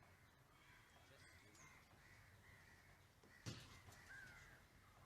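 Near silence, with faint bird calls now and then and a single sharp knock about three and a half seconds in.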